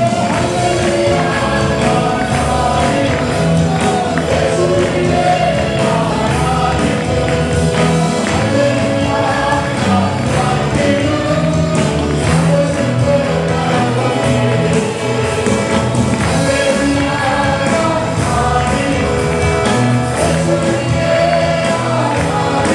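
Gospel worship music: a group of voices singing over a band with a steady bass line, with tambourine.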